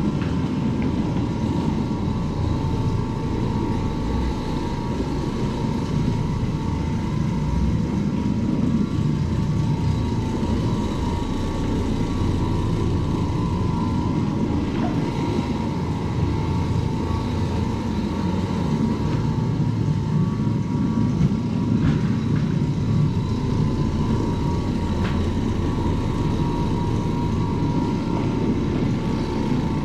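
Electric carpet-cleaning machine running steadily: a motor whine over a low rumble.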